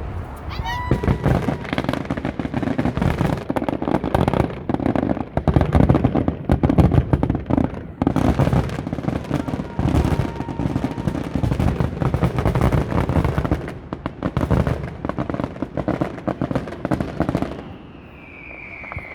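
Fireworks finale: a dense, continuous barrage of shell bursts, with booms and crackling one on top of another, easing off near the end, where a long falling whistle is heard.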